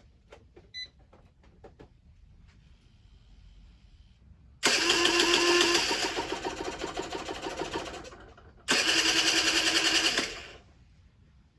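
Generic Trigger SM 50cc two-stroke engine being started after an intake rebuild: a few light clicks, then it bursts into fast, rattly running about four and a half seconds in and fades out over a few seconds, then fires again briefly and cuts off sharply, not yet keeping itself running.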